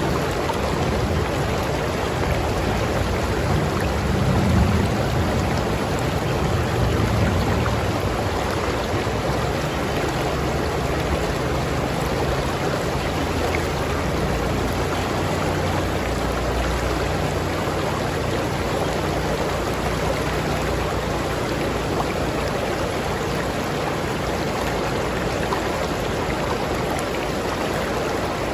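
River water flowing steadily, a continuous even wash of water noise. A deeper rumble swells briefly about four to seven seconds in.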